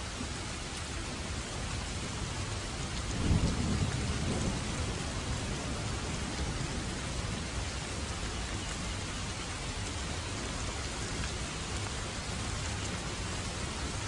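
Steady rain falling, with a roll of thunder starting about three seconds in and fading over a couple of seconds.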